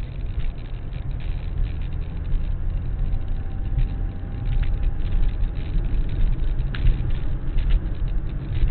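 Steady low rumble of a car on the move, engine and road noise, with a few light clicks.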